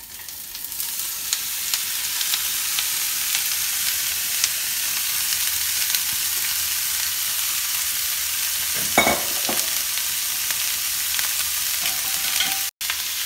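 Sliced peppers, onions and smoked sausage sizzling and crackling in a hot stainless steel skillet. The sizzle builds over the first second as the food lands in the pan, then holds steady; a good sizzle like this is the sign of a properly preheated pan. A short clink about nine seconds in.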